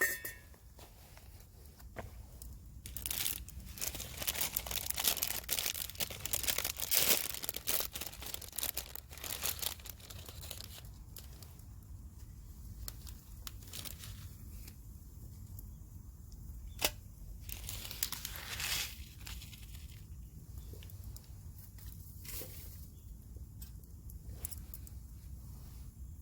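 Plastic packaging crinkling and being torn open by hand, in irregular rustling bursts that are busiest in the first half, with a sharp click partway through and another burst a little later.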